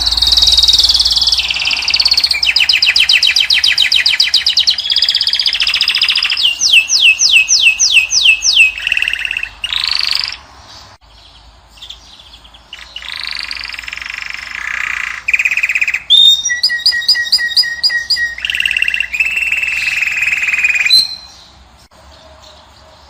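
A caged finch singing a loud, fast song of trills and runs of quickly repeated rising notes. The song breaks off for a couple of seconds about halfway through and again near the end.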